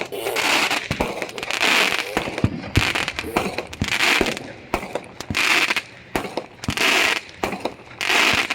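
Fireworks going off: a run of sharp bangs mixed with bursts of crackle and hiss about once a second.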